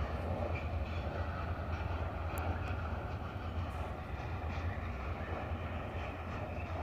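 Freight train heard from a distance: a steady low drone, with a few faint clicks from the wheels on the rails.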